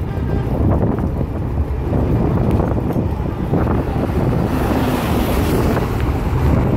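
Heavy wind buffeting the microphone over the steady low rumble of a moving train.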